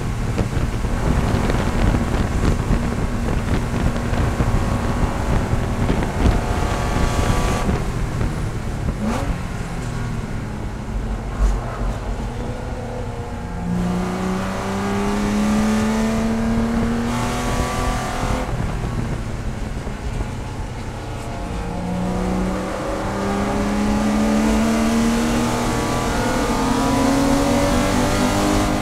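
Race car engine heard from inside the cabin at speed, dropping through the gears as the car slows for a corner in the first half. It then pulls hard in third gear with the engine pitch climbing, eases briefly, climbs again and shifts up near the end.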